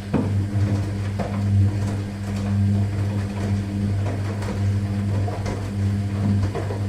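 Washing machine running: a steady motor hum with irregular knocks and clicks.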